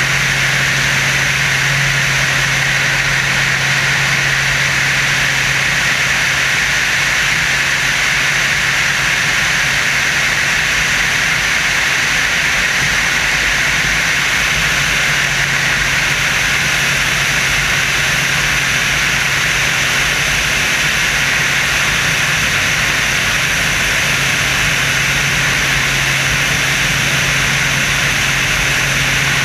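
The Screamin' Sasquatch, a Waco biplane with an added jet engine, running steadily, heard on board as an unbroken rush of engine and wind noise over a steady low hum.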